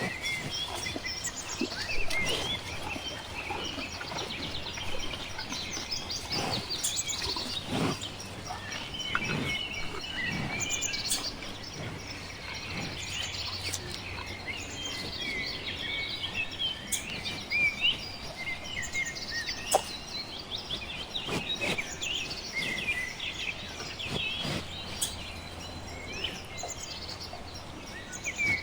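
Many small birds chirping at once, a dense, continuous chorus of short calls and quick whistles, with a few sharp clicks among them.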